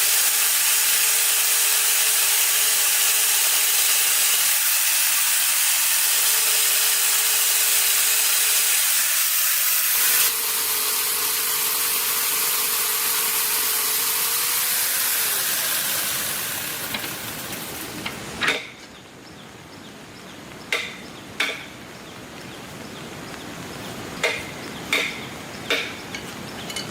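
A power tool working wood with a loud steady hiss and an on-off hum, winding down about sixteen seconds in; then a series of sharp single knocks, like hammer or chisel strikes on wood.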